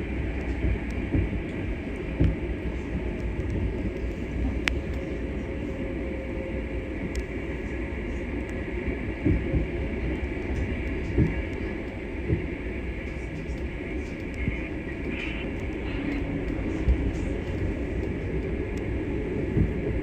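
Passenger train running along the track: a steady low rumble, with occasional short knocks from the wheels.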